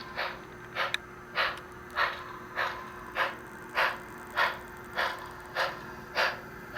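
Digital steam-chuff sound from the Bachmann Spectrum HO 2-8-0 steam locomotive's sound decoder, played through the small speaker in its tender as the model runs forward: an even beat of short exhaust chuffs, about one every 0.6 seconds, over a steady hum.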